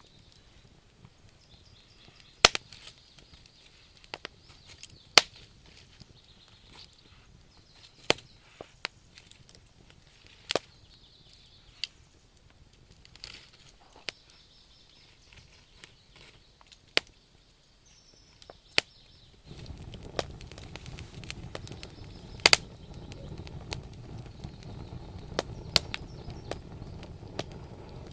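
Wood campfire crackling, with sharp pops and snaps from the burning logs every second or two. About two-thirds of the way in, a steady rushing noise sets in under the crackle.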